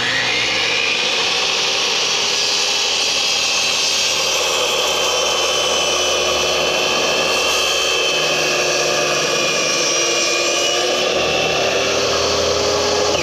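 Electric power saw running at full speed while cutting lumber to length: a loud, steady whine that holds at one pitch.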